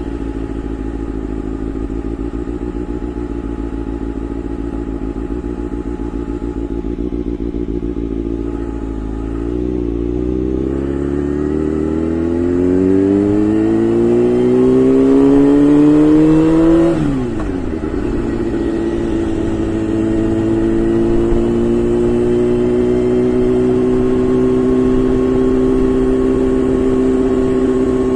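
Honda CBR600 F4i inline-four motorcycle engine under way. It holds steady at low revs, then the revs climb for several seconds past the middle, drop sharply on an upshift, and settle into a steady, slightly rising note at higher speed.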